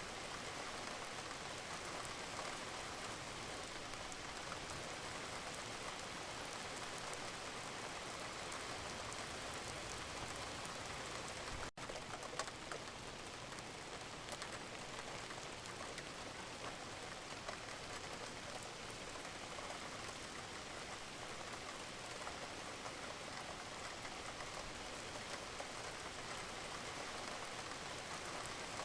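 Steady rain falling, an even hiss dotted with the taps of individual drops, with a split-second gap about twelve seconds in.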